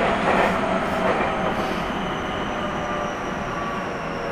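Onboard running sound of a Keio 1000 series train with Toyo GTO-VVVF inverter control: steady rail and running noise, with a thin high whine gliding slowly down in pitch.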